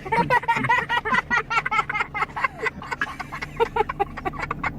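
An animal making a rapid series of short, high-pitched chirping calls, several a second.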